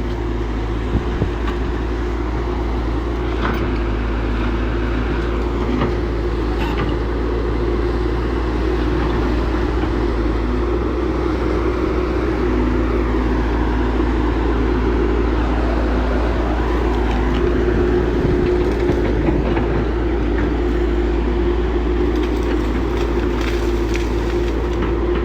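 Heavy diesel earthmoving machinery running steadily under load, with a deep constant rumble, a held engine tone and a few short knocks.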